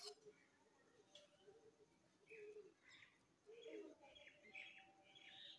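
Faint birds chirping, a string of short calls from about two seconds in, over near silence.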